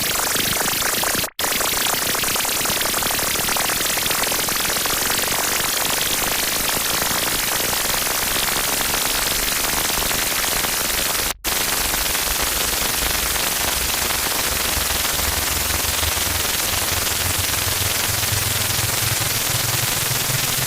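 Harsh noise: loud, dense distorted static, cut off twice for an instant, about a second in and about eleven seconds in. A low drone rises through it in the last few seconds.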